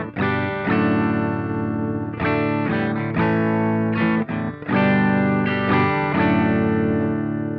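Electric guitar played through a Velouria FX Witchcraft distortion/preamp pedal: chords struck again and again and left to ring, the last one fading out.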